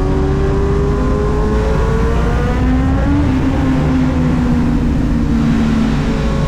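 Kawasaki Z900's inline-four engine pulling hard under acceleration, its pitch climbing for about three seconds. It then drops on an upshift and holds lower, easing slightly, over steady rushing noise.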